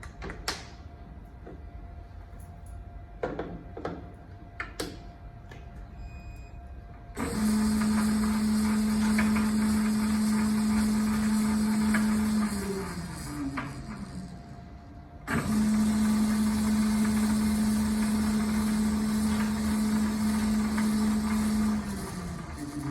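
Clausing 4901 metal lathe's motor and drive on a first test run after reassembly: after a few light clicks it starts abruptly and runs with a steady hum for about five seconds, then is switched off and spins down with a falling pitch. It is started a second time and runs a little longer before winding down again.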